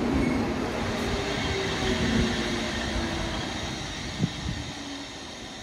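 Appenzeller Bahnen Stadler Tango electric articulated train rolling past slowly, a steady hum over the rumble of wheels on rail, fading as it moves away. A single sharp clack about four seconds in.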